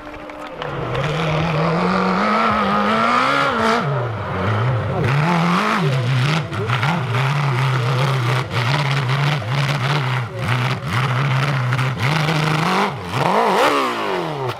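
Motocross motorcycle engine revving hard under a working throttle, its pitch rising and falling again and again, with a sharp drop and climb near the end.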